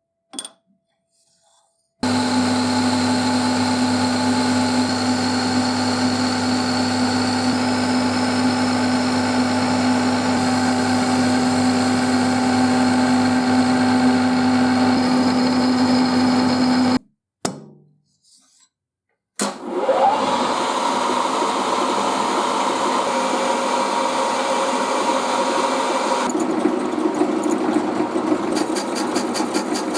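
Electric motor of a workshop machine tool running steadily with a constant hum, then cutting off. About two seconds later a machine starts up with a rising whine as it spins up, then keeps running.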